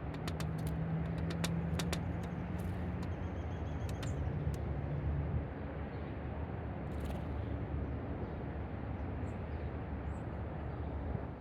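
Steady low rumble of a motor vehicle running, with a low hum through the first five seconds and a run of light clicks in the first two seconds.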